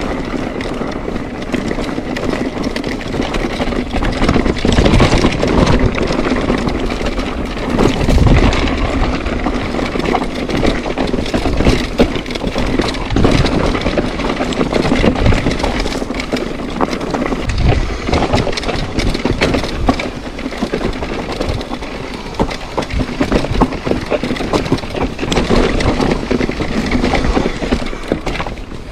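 Mountain bike riding a rough trail: constant rattling and knocking of the bike and tyres over rocks, with heavy wind rumble on the microphone.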